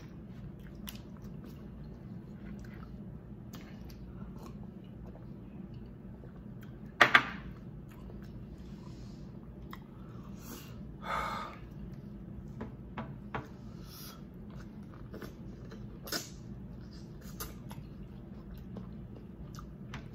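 Close-up eating sounds: chewing and mouth noises with scattered small clicks of gloved hands handling crab and shell, over a steady low hum. A sharp double snap about seven seconds in is the loudest sound, with a shorter rustling burst a few seconds later.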